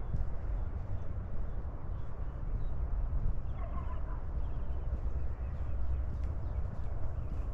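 Footsteps along a sandy trail with low rumbling on the wearable camera's microphone. About halfway in, a bird calls once with a quick run of chattering notes lasting under a second.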